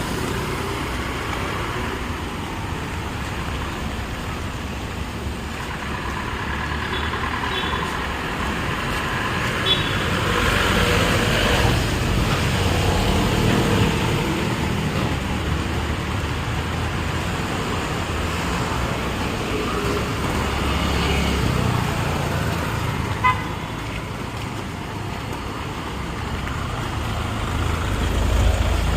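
Busy city street traffic: a steady mix of passing vehicles, with horns tooting now and then.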